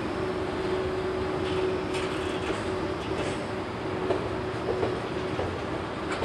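A JR Freight container train's flat wagons rolling past at speed, a steady rumble of wheels on rail with a steady humming tone from the running gear. Scattered clicks and clacks come as wheels cross rail joints.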